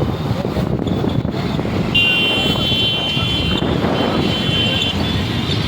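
Road noise from a moving vehicle with low rumble. About two seconds in, a vehicle horn sounds one steady blast lasting about three seconds.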